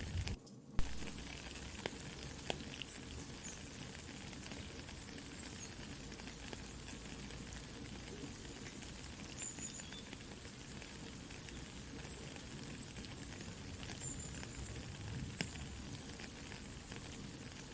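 Soft steady rain, with a wood campfire crackling and giving off sharp pops now and then; the loudest pop comes about a second in. The sound drops out briefly just before it.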